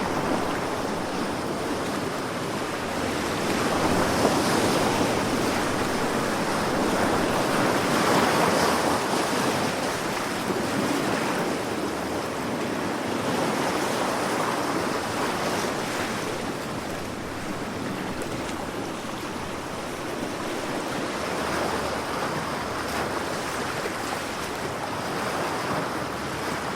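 Sea waves breaking and washing in continuously, the surf swelling and easing every few seconds, with some wind.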